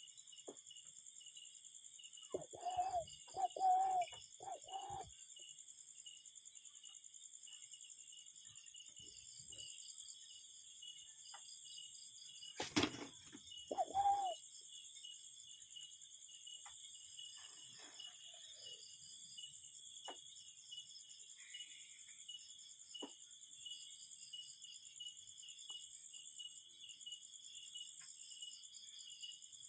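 A cuckoo calling: four hooting notes in quick succession a few seconds in, then a single note near the middle, over a steady, finely pulsing high drone of insects. A sharp knock comes just before the single note.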